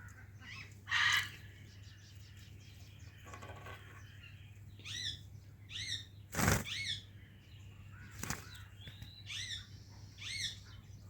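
Indian ringneck parrot giving short, repeated, high-pitched chirping calls in quick groups. A noisy burst comes about a second in, and two sharp sudden sounds come later, over a steady low hum.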